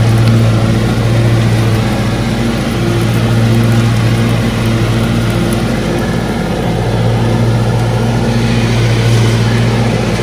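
John Deere D155 riding mower's engine running steadily, its note sagging briefly a couple of times. Extra hiss comes in near the end.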